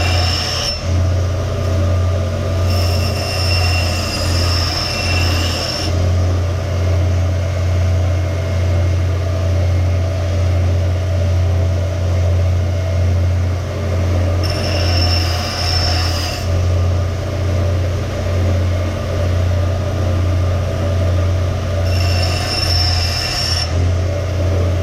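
Power grinder running steadily with a low hum, with three spells of high squealing as the old axe head's steel is ground, about three seconds in, midway and near the end.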